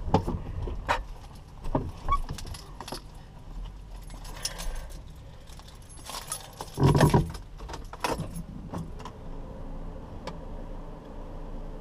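Car keys jangling, with scattered clicks and knocks of handling, a heavier thump about seven seconds in, and a low steady hum underneath.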